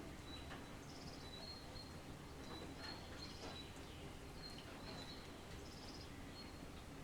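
Faint light rain with small birds chirping over and over in short, high calls.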